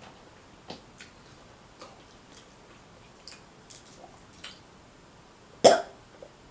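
Eating crab: scattered small clicks and cracks of crab shell being picked apart and chewed, with wet squishing. One much louder, sharp sound comes about five and a half seconds in.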